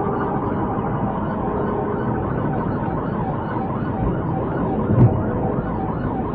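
Police siren in a fast rising-and-falling yelp, over steady vehicle noise. A brief thump comes about five seconds in.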